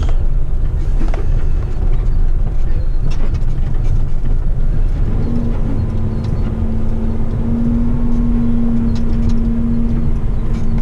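Heavy rigid truck's diesel engine and drivetrain running at low speed, heard from inside the cab as a steady low rumble with occasional light rattles. A steady droning tone joins about five seconds in.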